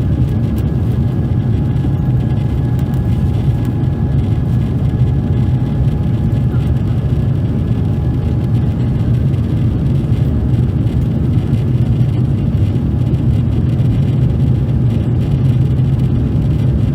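Steady in-cabin noise of an Airbus A350-900 in its climb after take-off: a deep, even rumble of its Rolls-Royce Trent XWB engines and airflow, with a faint steady whine on top.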